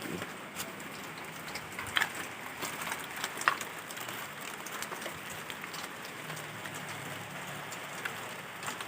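Rain falling on a surface: a steady hiss with scattered sharp drips and taps, the strongest about two seconds in and again about three and a half seconds in.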